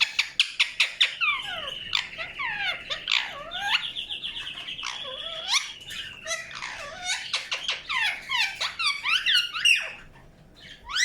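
Indian ringneck parakeet chirping and chattering. It opens with a fast run of short chirps, moves into sweeping whistled calls and a rapid trill, and goes quieter near the end.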